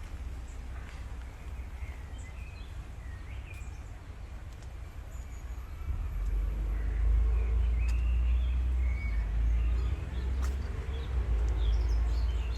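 Outdoor street ambience with a low rumble that gets markedly louder about six seconds in, and birds chirping in short calls throughout.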